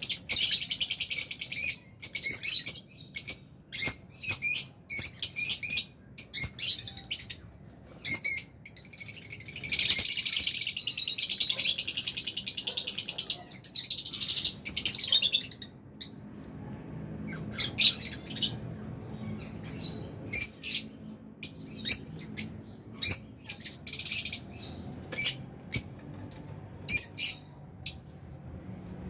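Flock of lovebirds chirping with rapid shrill calls. About nine seconds in, the calls swell into a dense continuous chatter for several seconds, then thin out to scattered calls.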